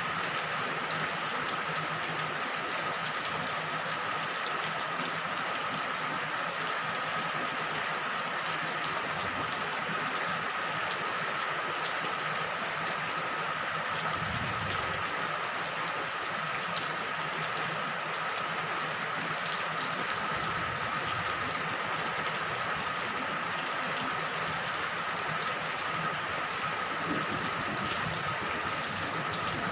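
Steady rain falling, a continuous even hiss, with a faint steady high tone running underneath.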